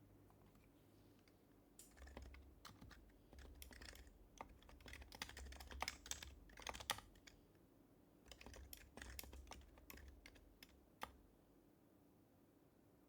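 Quiet typing on an HHKB Professional HYBRID Type-S keyboard with silenced Topre switches: two runs of quick keystrokes, then a single keystroke near the end.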